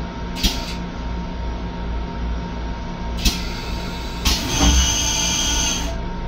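Steady low rumble and hum of an M7 railcar. Over it come short hisses about half a second and three seconds in, then a longer hiss with a faint high whistle for about a second and a half from about four seconds in.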